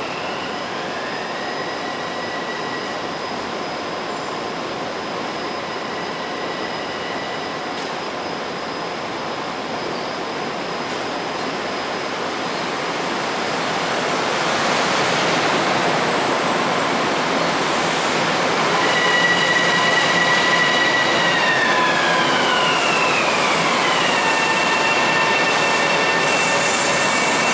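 Long Island Rail Road M7 electric train pulling into an underground platform: a steady rumble and hiss that grows louder about halfway through as the train comes alongside, with a high electric whine that slides down in pitch near the end as it brakes toward a stop.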